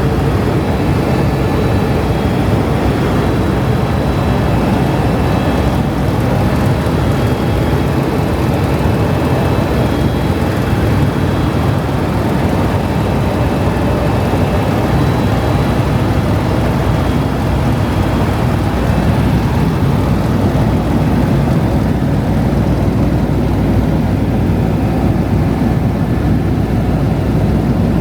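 Helicopter running steadily in flight: a constant low rotor and engine drone with a faint high turbine whine over it.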